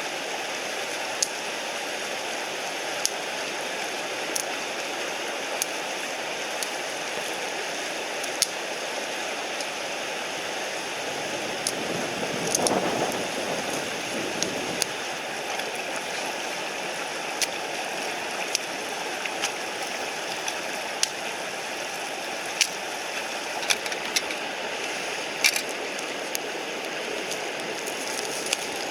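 Mountain stream rushing steadily, with sharp clicks and pops every second or two and a brief louder swell of noise about twelve seconds in.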